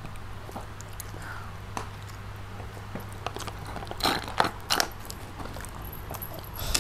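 Close-miked chewing and mouth noises of eating, with scattered small clicks over a low steady hum. About four seconds in comes a short cluster of louder sips and clicks as a plastic water cup is drunk from.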